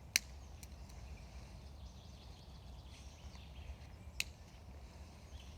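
Two sharp clicks, about four seconds apart, over a steady low outdoor background with faint birdsong.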